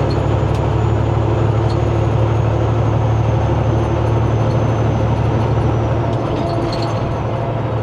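Semi-truck diesel engine running steadily, heard from inside the cab while driving, as a loud, even low drone.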